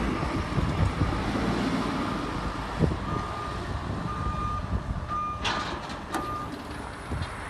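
Silage round baler machinery running steadily, with an electronic warning beep sounding four times, about once a second, from about three seconds in. Two sharp metallic clanks come in among the later beeps.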